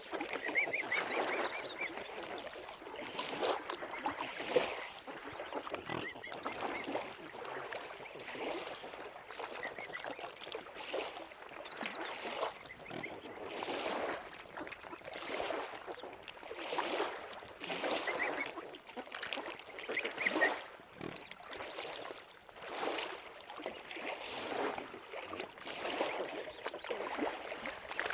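A flock of waterfowl calling, many short calls following each other with only brief gaps.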